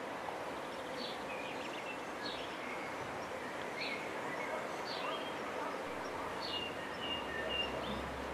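Garden ambience: a small bird gives short chirps, about one every second, over a steady outdoor hiss.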